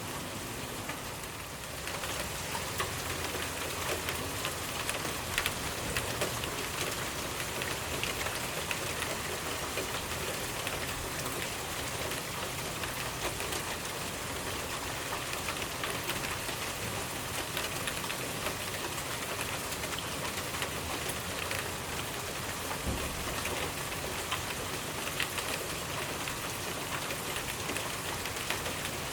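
Steady rainfall: an even hiss of falling rain with dense, fine patter of individual drops. The rain grows slightly louder about two seconds in.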